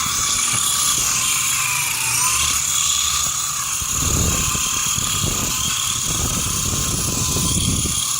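Small RC toy helicopter's electric motors and rotors whining steadily in flight. A low rumbling joins in from about four seconds in until near the end.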